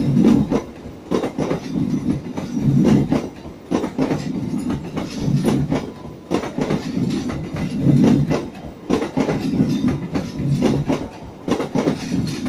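Passenger train coaches rolling past close by, their wheels clattering over the rail joints in clusters of knocks about every second and a bit, over a steady rumble.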